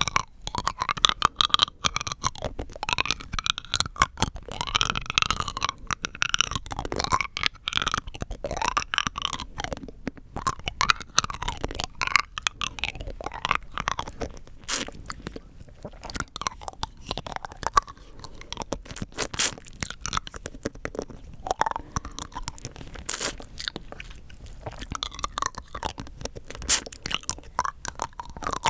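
Rock candy being crunched and chewed close to the microphone: the sugar crystals crack between the teeth in a dense run of sharp, irregular crackles.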